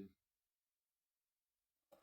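Near silence, the sound cut to nothing between words, with a short soft noise just before the end.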